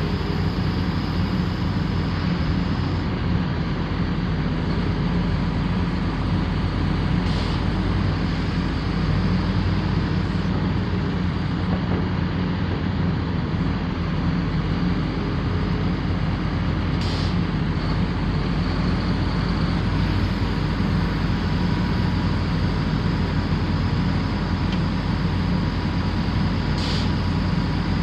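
Heavy diesel engine of a Komatsu PC450LC-8 excavator running steadily with a low, even hum.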